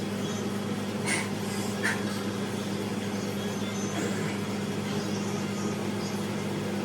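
A steady low mechanical hum, with a couple of brief faint clicks about a second and two seconds in.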